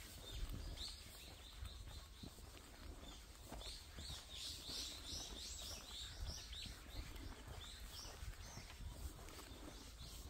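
Wild birds chirping, with a quick run of short high chirps about four to six seconds in, over a steady low rumble.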